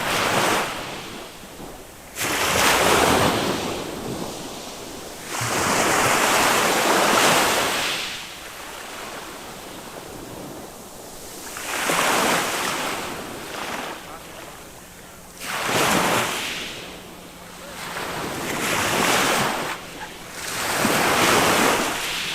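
Small waves of a calm sea breaking and washing up the beach, each rush swelling and fading, a new one every few seconds.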